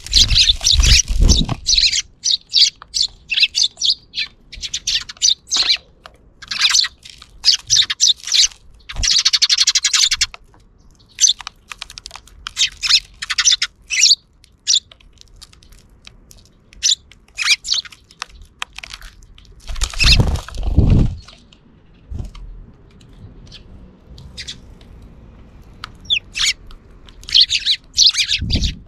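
Sparrows chirping in quick, overlapping series of short high chirps, with a low rumble at the start and another about two-thirds of the way through.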